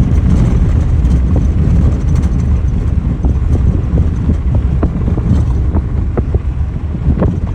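Car on the move: a steady low rumble of road and engine noise with wind buffeting the microphone, and scattered light clicks.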